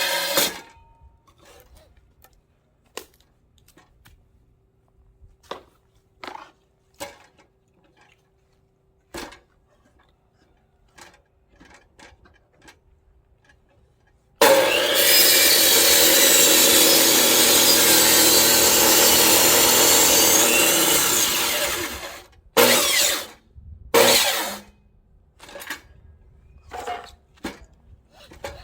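Electric chainsaw running and cutting through firewood for about seven seconds, then two short bursts of the saw. Scattered light knocks of wood come before and after.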